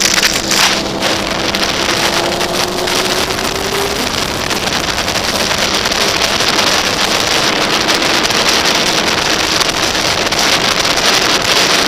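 Wind rushing over the microphone of a camera on a moving sportbike at highway speed, with the motorcycle's engine droning underneath, its pitch climbing slowly over the first few seconds and then holding steady.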